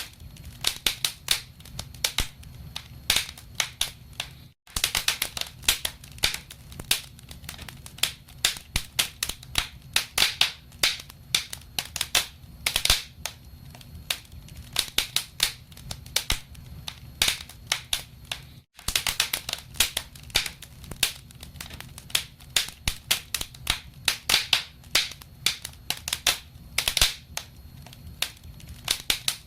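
Wood fire crackling in a fireplace: frequent, irregular sharp pops and snaps over a steady low rumble of burning. The sound cuts out for an instant twice.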